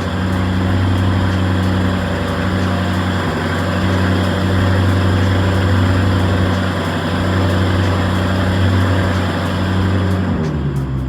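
Lamborghini Urus 4.0-litre twin-turbo V8 idling steadily, with the idle settling to a lower pitch near the end.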